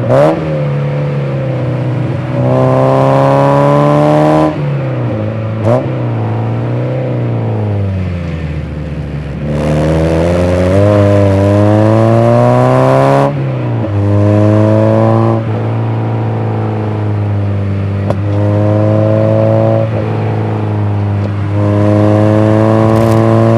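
Mazda MX-5 NA's 90 hp 1.6-litre four-cylinder engine being driven through the gears: the engine note climbs in pitch on each pull and drops sharply at each upshift. In the middle it eases off to lower, falling revs for a few seconds before one long climb to high revs.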